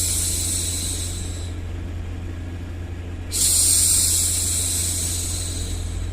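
A woman's long 'shhh' hushing sounds, repeated about every four and a half seconds, each swelling in and slowly fading. Under them runs a steady low white-noise rumble. One shush fades out early and the next begins about three seconds in.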